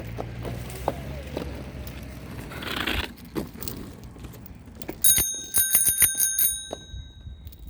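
A bicycle bell rung rapidly, eight or nine quick rings over about a second and a half, then ringing out. Before it, a low steady hum.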